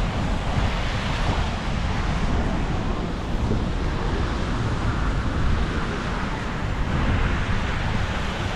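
Steady city street noise: traffic running on wet roads in the rain, with wind buffeting the microphone as a low rumble.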